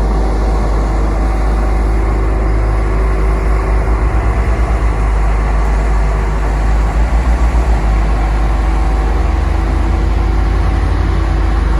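Heavy construction machinery's diesel engine running steadily with a deep rumble, pulsing briefly about four seconds in and again around seven seconds.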